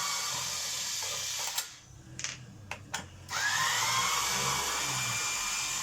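Electric drill-driver running steadily, stopping about a second and a half in, then a few sharp clicks. About three seconds in it spins up again with a quick rise in pitch and runs on steadily.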